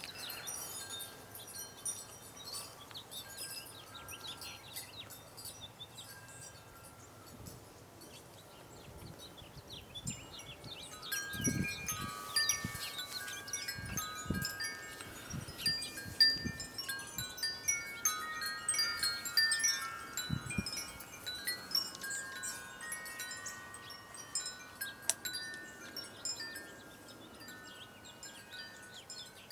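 Wind chime ringing in the breeze, its overlapping held notes getting busier about a third of the way in and thinning out again past the middle. Small birds chirp faintly and high throughout, and there are a few low thumps.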